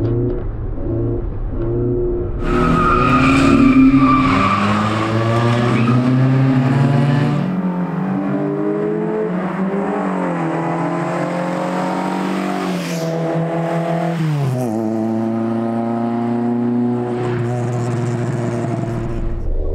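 Fiat Ritmo Abarth 130TC's naturally aspirated four-cylinder, fed by twin-choke Weber carburettors, accelerating hard. Its note climbs steadily through the revs, falls sharply at a gear change about three-quarters of the way in, then runs high and steady.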